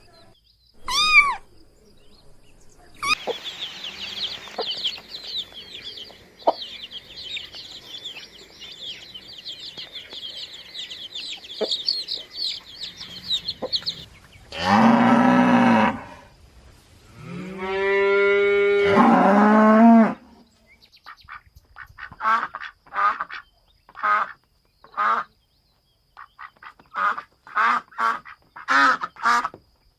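A series of animal calls: about ten seconds of rapid high chirping, then two long, loud, low calls like a cow mooing, then a quick run of short fowl calls that lasts until near the end.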